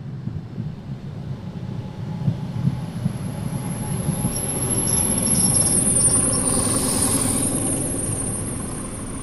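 Electric commuter train (elektrichka) running by, its wheels knocking irregularly over the rails as it grows louder to a peak about six seconds in, then easing off. A thin, high, steady squeal runs through most of it, and there is a short burst of hiss around seven seconds.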